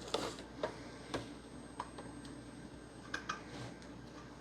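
Scattered light clicks and taps of a screwdriver working the screws of an Xbox One S console's case, about eight in all, irregularly spaced.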